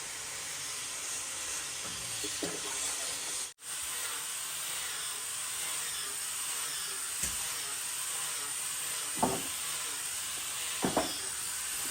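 A steady high hiss that cuts out for an instant about a third of the way in, with a few short knocks in the second half.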